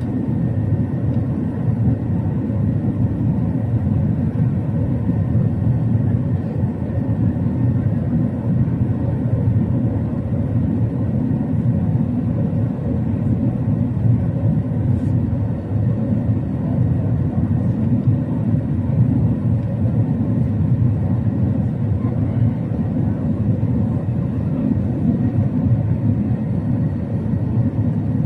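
Airbus A380-800 on approach, a steady low rumble of engines and airflow with no change through the stretch.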